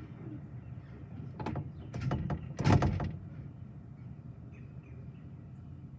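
A run of sharp knocks and clatter lasting about a second and a half, loudest about halfway through, over a steady low background rumble.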